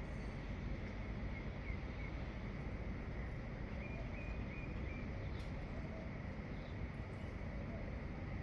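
A few faint, short bird chirps over a steady low rumble of background noise.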